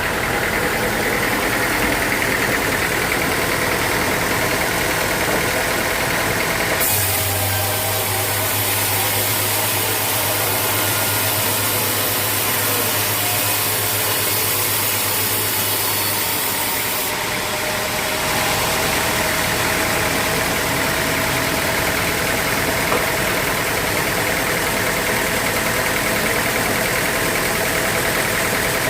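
Sawmill machinery running steadily with a continuous engine-like hum. About a third of the way in the sound switches abruptly to a hissier tone with a stronger low hum for about ten seconds, then switches back.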